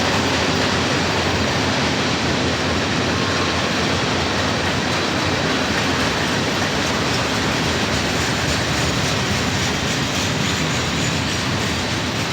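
Freight train passing close by: a steady rumble of railcars rolling over the rails.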